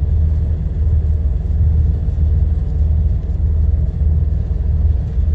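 Steady low drone inside a truck's cab while driving on the road: engine and road rumble, swelling and easing slightly.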